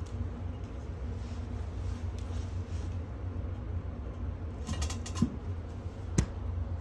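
A few light clicks and two sharp knocks over a steady low hum, the second knock the loudest.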